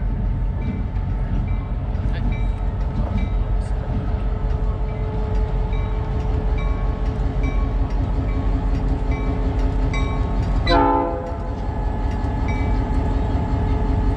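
EMD GP38 diesel locomotive running with a steady low rumble, its bell ringing at a regular pace of about one and a half strokes a second, then a short horn blast about eleven seconds in, the loudest moment.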